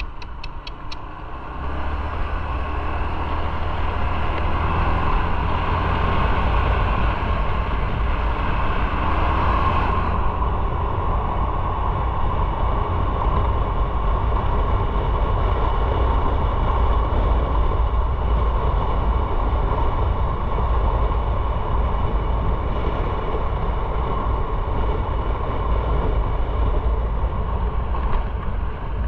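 Motorcycle running on the road: steady engine and wind noise that rises about two seconds in as it pulls away and then holds at a cruise. A few quick, regular ticks sound right at the start.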